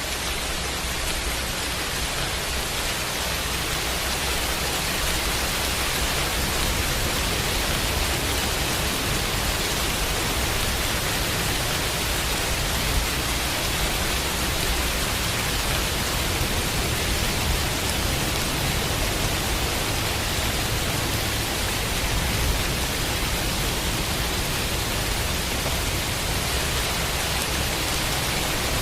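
Steady, dense rain with an even hiss and no break.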